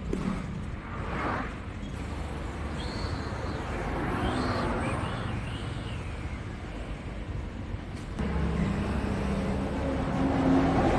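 Steady low rumble of a running motor vehicle engine, a little louder in the last few seconds.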